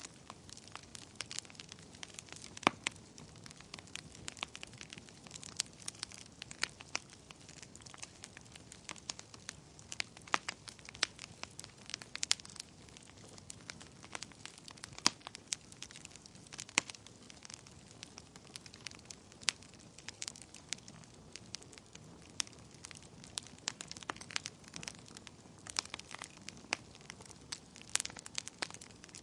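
Wood fire crackling in a fireplace: irregular sharp pops and snaps, many each second, over a soft steady hiss of burning.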